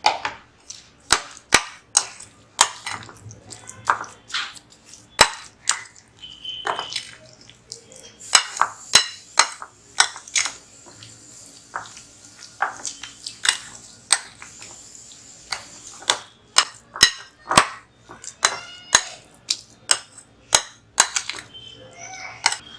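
A spoon knocking against a mixing bowl while stirring a thick cake batter: irregular sharp clinks, about one or two a second.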